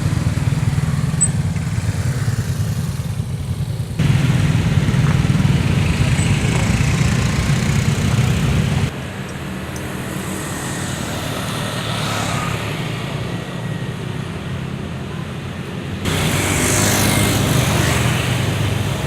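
Motor vehicle engine and road noise while riding, a steady low rumble that jumps abruptly in level three times.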